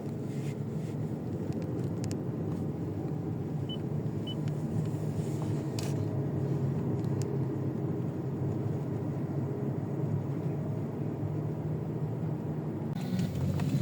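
Steady low rumble of a car driving, with two faint short beeps about four seconds in.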